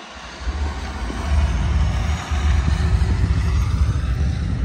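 A car engine running low and steady as a car moves slowly past.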